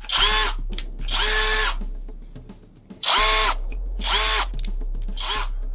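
Saker mini cordless drill run in five short trigger bursts, its motor whining up to speed and winding down each time. The second and third bursts are the longest.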